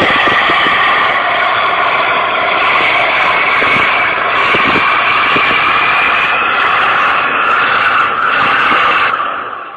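Truck engine running hard at high revs, a steady drone that fades away near the end.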